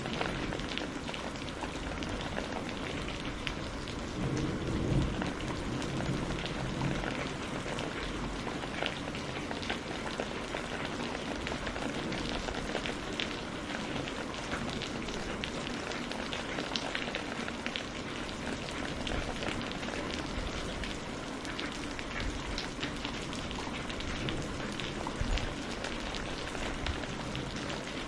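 Steady rain falling, a dense patter of drops hitting a surface, with a low rumble of distant thunder swelling about five seconds in.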